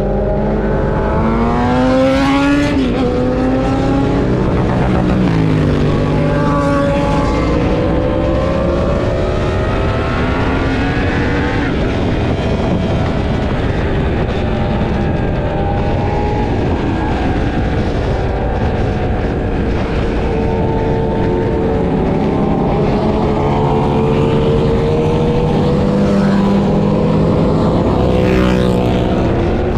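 Sport motorcycles under way, their engines revving up through the gears with the pitch climbing and then dropping at each shift. More than one engine can be heard at once.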